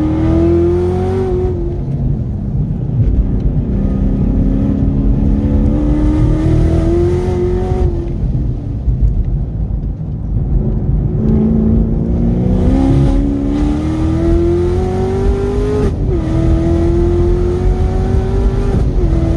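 Supercharged 6.2 L V8 of a 2018 Chevrolet Camaro ZL1 1LE under hard track driving, heard from inside the cabin. The engine note climbs, then goes quieter for a few seconds off the throttle as the car slows for a corner. It then climbs steeply again, dropping sharply in pitch about sixteen seconds in and again near the end as it shifts up.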